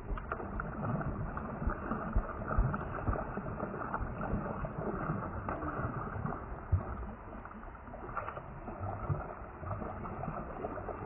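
Water sloshing and gurgling against a kayak hull, sounding muffled, with many small knocks.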